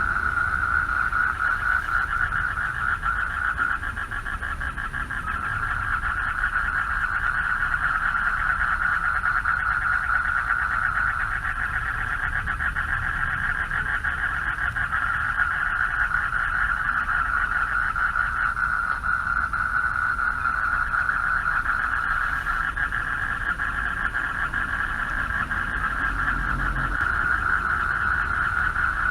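A chorus of male frogs calling for mates, a dense, continuous, rapidly pulsing trill with no breaks. A low steady rumble sits underneath.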